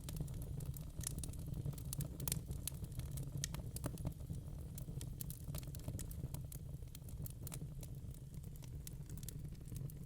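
Wood logs burning in a fireplace, crackling with many small irregular pops over a steady low rumble.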